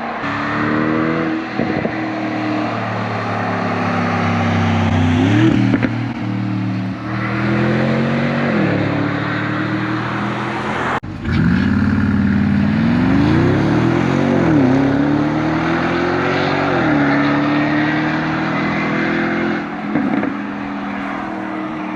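Mercedes G550's twin-turbo 4.0-litre V8 through a valved cat-back exhaust, revving up and dropping back several times as it pulls through the gears, then running at a steady note near the end. A brief break comes about eleven seconds in.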